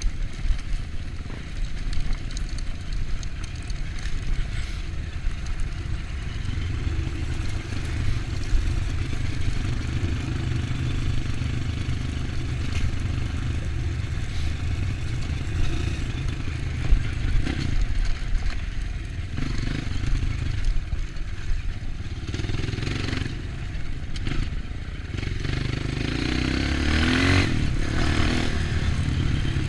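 Off-road motorcycle engine running under changing throttle while riding a dirt trail, with clattering and scraping from the bike over rough ground. Near the end the engine revs up, rising in pitch.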